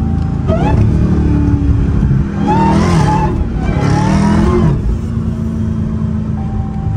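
Dodge Hellcat's supercharged 6.2-litre HEMI V8 heard from inside the cabin, accelerating hard: a short rise in pitch under a second in, then two strong pulls around the middle, the pitch climbing through each, before settling to a steadier run.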